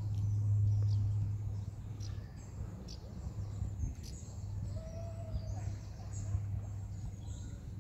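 Outdoor ambience: a few short, faint bird chirps over a steady low hum.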